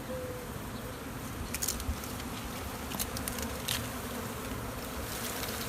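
Honeybee swarm buzzing steadily, with a few short sharp clicks over it.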